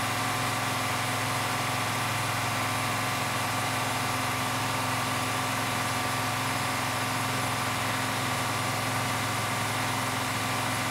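International DTA360 inline-six turbodiesel in a school bus, running steadily under load on a hill climb, heard from inside the bus. An even drone with steady whining tones above it and no change in pitch.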